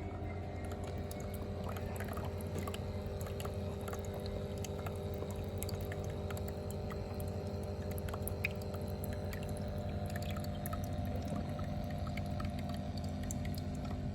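Water trickling and dripping down a small terrarium waterfall, many small splashes over a steady low hum.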